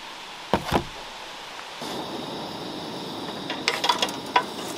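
Two light knocks, then from about two seconds in sandwiches sizzle steadily on a griddle over a Coleman two-burner propane stove, with a few taps and scrapes of a wooden spatula near the end.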